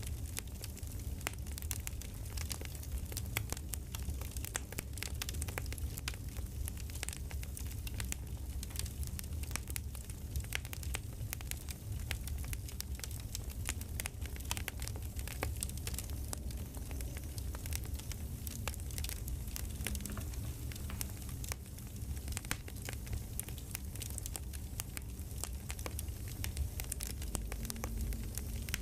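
Campfire ambience: wood fire crackling with many small irregular pops and snaps over a steady low rumble.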